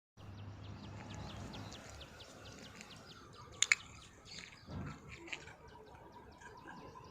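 Small birds chirping in a rapid, continuous run of short high calls. Two sharp clicks come close together about halfway through.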